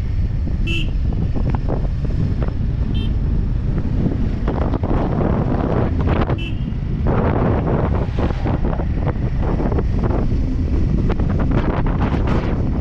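Wind buffeting the microphone on a moving motorcycle, with the motorcycle's running drowned in the rushing noise. Three short high-pitched beeps come through in the first half.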